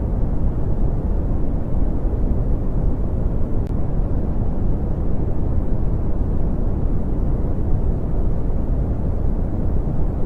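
Brown noise: a steady, deep rumbling hiss with its energy heaped at the low end and little above the middle, unchanging throughout.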